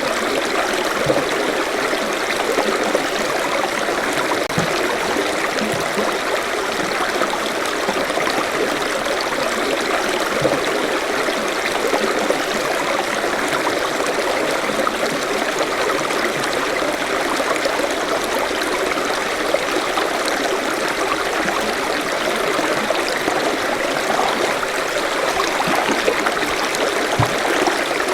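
Forest stream flowing steadily over stones, a continuous babbling and trickling of water.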